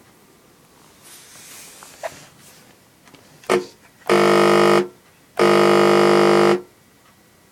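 Chauvet Hurricane 700 fog machine's pump buzzing loudly as it pushes out fog, in two bursts: one under a second, then a longer one of about a second, each starting and stopping sharply.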